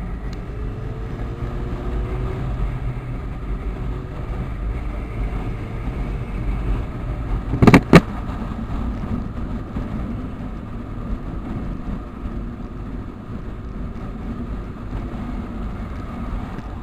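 Motorcycles running on the road, a steady low engine and wind rumble with faint rising and falling engine notes. Two sharp knocks close together about eight seconds in.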